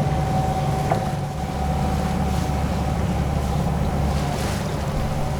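Sailboat under way at sea: a steady low drone with the noise of wind and water rushing past the hull.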